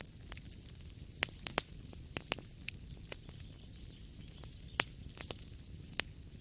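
Wood fire in a fireplace crackling: irregular sharp pops and snaps over a low steady hiss and rumble, with the loudest pops about a second in, near five seconds and near six seconds.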